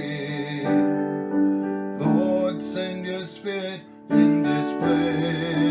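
Piano playing slow, held chords as accompaniment to a hymn chorus.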